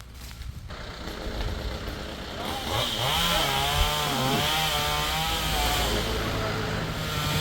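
Two-stroke chainsaw running, growing louder over the first few seconds, its pitch wavering up and down as the engine speed changes.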